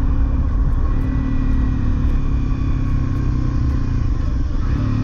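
Honda CRF250L single-cylinder trail bike engine running steadily while under way, with wind and road noise over it.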